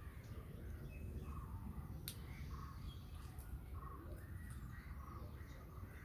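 Faint birds calling outdoors, a run of short calls repeating every half second or so, over a low steady rumble; a single sharp click about two seconds in.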